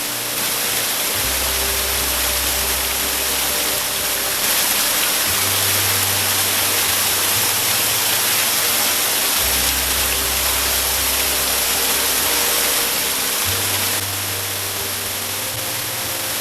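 Loud rushing water, a steady hiss across the whole range, under background music whose low bass note changes about every four seconds.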